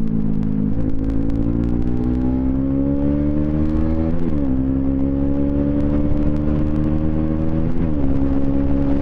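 Bajaj Pulsar NS200's single-cylinder engine through an aftermarket twin-pipe exhaust, pulling under acceleration with its pitch rising steadily and dropping sharply at two upshifts, about four seconds in and near the end.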